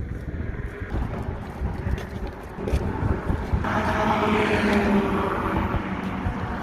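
Wind buffeting the microphone in gusts. From about halfway a louder, steady rush with an engine-like hum comes in, as of a vehicle passing.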